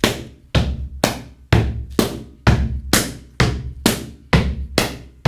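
A steady drum beat, evenly spaced strikes about two a second, setting the tempo for a gumboot dance exercise at its second speed.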